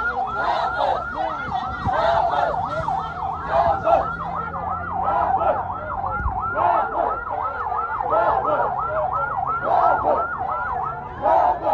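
A siren in a fast yelp, its pitch rising and falling about three times a second, with a low steady hum under it for the first half.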